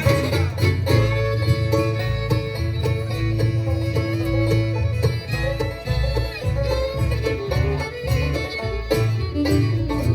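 Live bluegrass band playing an instrumental passage with no singing: picked banjo, fiddle and guitar over low bass notes, closing out the song after its last chorus.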